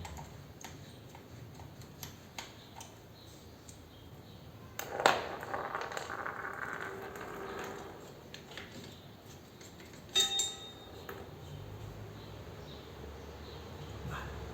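Metal tools and parts clinking during hand work on a motorcycle: light clicks, a loud metallic clang about five seconds in that rings on for a couple of seconds, and a sharp ringing clink near ten seconds.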